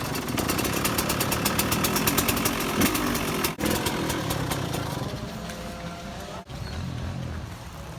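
Motocross motorcycle engine running, broken by abrupt cuts about three and a half and six and a half seconds in.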